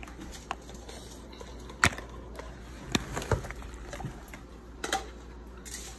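A few sharp, separate clicks and knocks of things being handled, the loudest about two seconds in.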